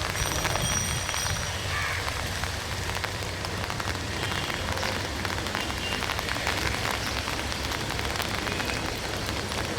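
Steady rain pattering and splashing, a dense patter of fine drops. A low steady hum runs underneath.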